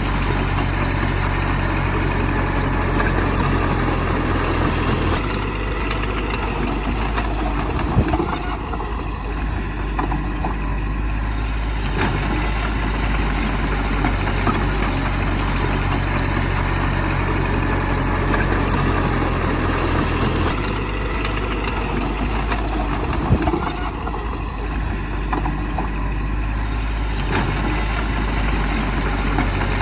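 Heavy diesel engine of earthmoving machinery running steadily. Its note changes about five seconds in and again about two-thirds of the way through. A sharp knock follows each change a few seconds later.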